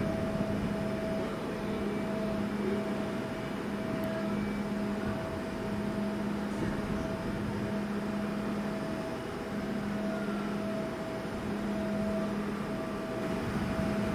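A train standing at the platform gives a steady two-note electrical hum, with gusts of wind rumbling on the microphone.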